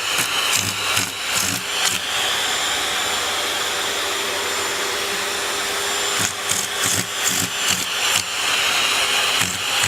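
A small motor running with a steady whir. Repeated knocks and clatter are heard over it in the first couple of seconds and again in the second half, with a smoother stretch in between.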